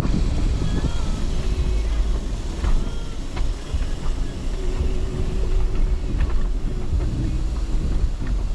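Vehicle engine running with a steady low rumble as it drives slowly over a rough, rocky mountain track, with a few sharp knocks from the rough road.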